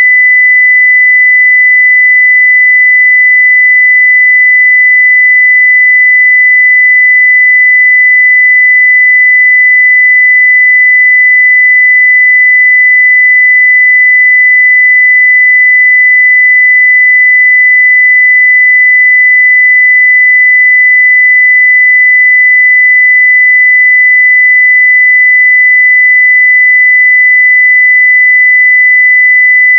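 A steady, loud 2 kHz pure sine-wave test tone at 0 dB (full scale), one unchanging high pitch with no overtones.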